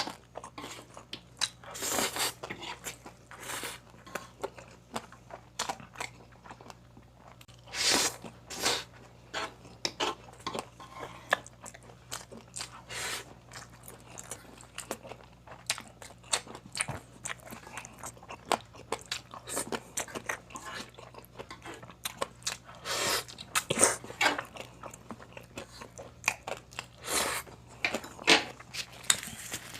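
Close-up eating sounds: repeated crunching bites and chewing of crispy deep-fried pork skin (crispy pata), coming irregularly every second or so with a few louder crunches.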